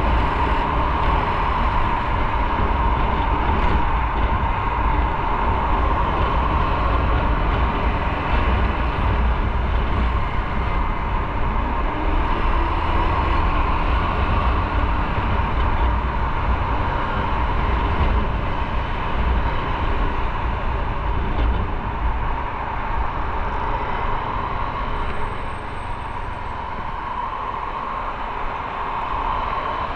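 Motorcycle on the move: steady wind rush buffeting the microphone over engine and road noise, easing a little about two thirds of the way through.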